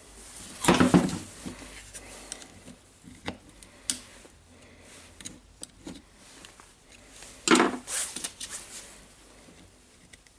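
Small hard parts being handled on a workbench: scattered light clicks and clatter, with two louder bursts of handling noise, about a second in and again near the end.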